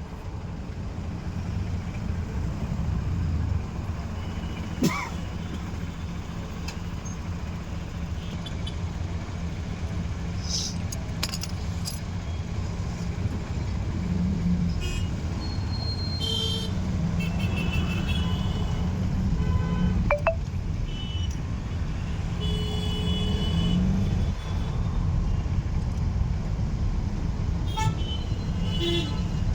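Steady low rumble of a car driving in city traffic, with short horn toots from vehicles around it now and then.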